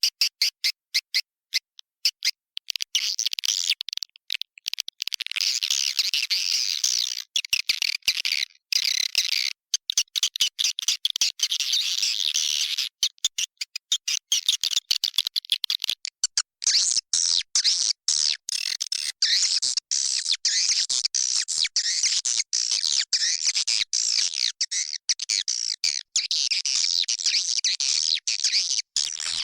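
Swiftlet calling track used to lure swiftlets into a bird house: a dense chorus of high, twittering chirps in quick, choppy stutters. It thins out twice, about 7 seconds in and again from about 13 to 16 seconds, before filling back in.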